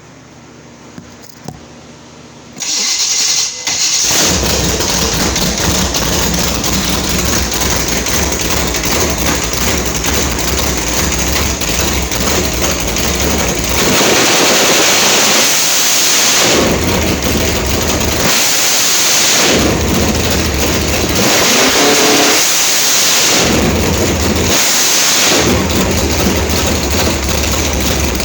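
Small-block Chevy 350 race engine with a solid-lift cam starts about two and a half seconds in, settles into a loud idle, then is revved hard about four times in the second half.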